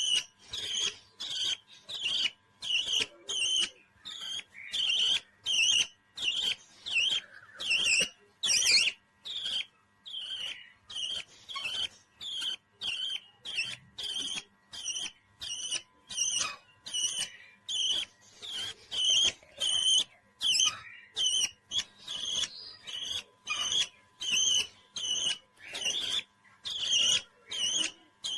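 Parrot chirping in an even, repeating rhythm of short high calls, about two a second.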